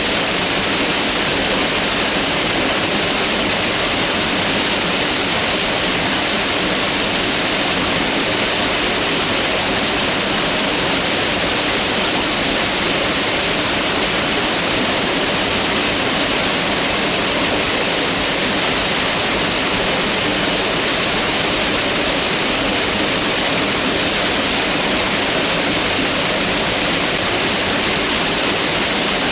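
Mountain river water rushing steadily, a constant even hiss with no breaks.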